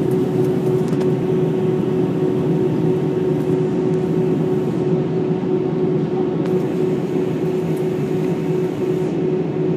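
Steady cabin noise of an Airbus A319 airliner in flight: a constant engine and airflow drone with a steady hum running through it.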